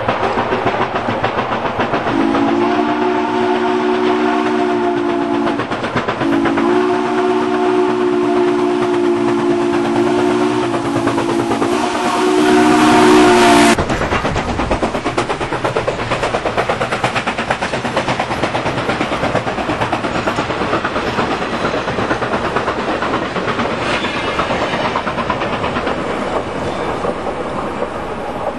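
A train's horn sounds a chord of several notes twice: a blast of about three and a half seconds, then a longer one of about seven and a half seconds that cuts off suddenly. Under it and afterwards comes the steady rumble and clatter of the train rolling on the track.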